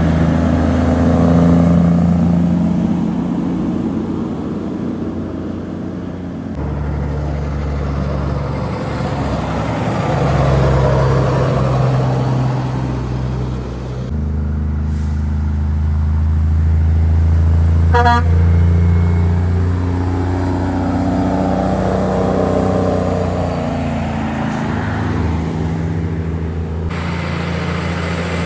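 Heavy truck engines running as trucks pass by, in a few short clips that cut abruptly from one to the next. About two-thirds of the way through, a truck gives a brief toot of its horn.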